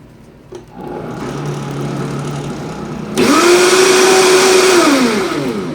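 Countertop blender puréeing a liquid chili-pineapple sauce mixture. It starts on a low speed, jumps to a much louder high speed about three seconds in with a steady motor whine, then is switched off and spins down with a falling pitch near the end.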